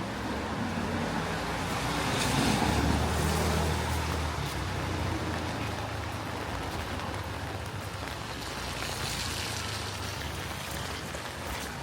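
Steady rain hiss on a wet street, with a vehicle passing on the wet road: its tyre hiss and engine hum swell about two to three seconds in and fade away slowly.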